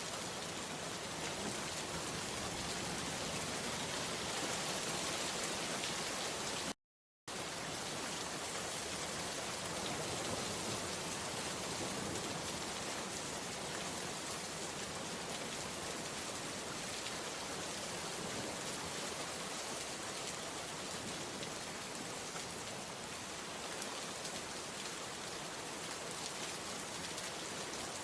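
Steady rain falling, an even patter with no single drops standing out. About seven seconds in, the sound cuts out completely for about half a second, then resumes unchanged.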